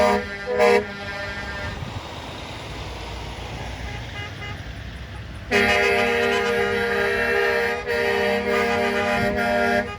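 Truck horn sounding in long, steady blasts: one ends under a second in, and after a few seconds of vehicle noise a second long blast starts about halfway through, with a short break just before 8 s, and stops near the end.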